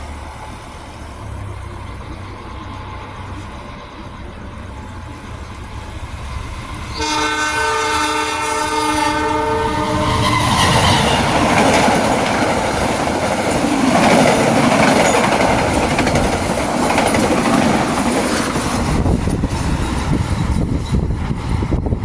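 Diesel-hauled long-distance passenger train approaching with a low locomotive rumble, sounding a multi-tone horn for about three seconds. It then passes close by with loud, rushing wheel and carriage noise.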